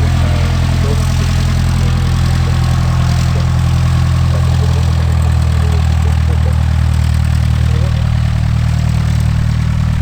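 Cessna 172S Skyhawk SP's four-cylinder Lycoming piston engine running steadily at low power, as when idling or taxiing.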